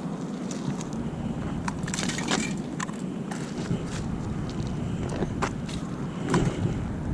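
Scattered crunches and scrapes in loose gravel, a few a second at the busiest, as litter is picked out of it, over a steady low rumble.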